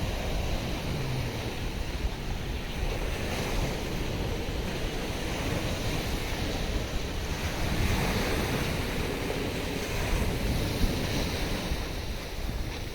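Wind buffeting the microphone over the rush of surf at a river mouth: a steady, noisy wash with a swell about eight seconds in.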